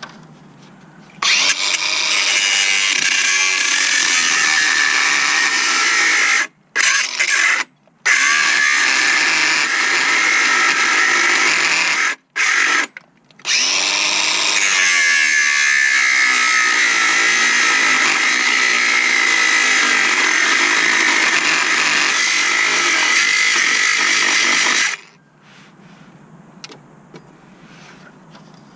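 A power tool running in long bursts: the motor spins up and runs steadily, stops briefly four times, then cuts off about 25 seconds in.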